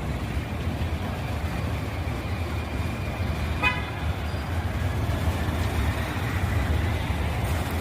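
One short horn toot about three and a half seconds in, over a steady low rumble of vehicles.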